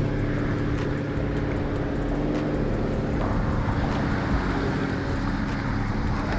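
An engine running steadily, its hum holding one even pitch, over a wash of wind.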